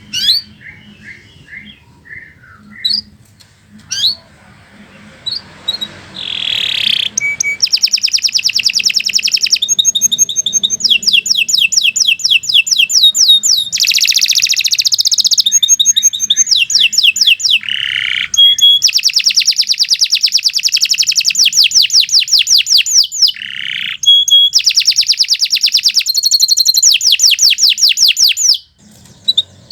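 Domestic canary singing: a few scattered chirps, then from about seven seconds in long, fast rolling trills of rapidly repeated high notes, broken by short pauses, until near the end.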